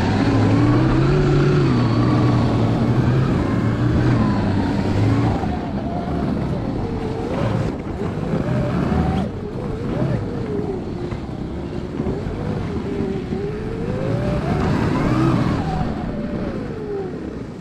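A 72-volt electric snowbike with a TrackNGo snow track being ridden: the motor's whine rises and falls in pitch with the throttle over a steady rushing noise from the track and snow.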